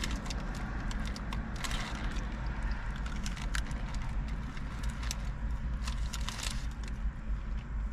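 Eating sounds: scattered small clicks and crunches from chewing crispy fried chicken and handling the food, over a steady low hum.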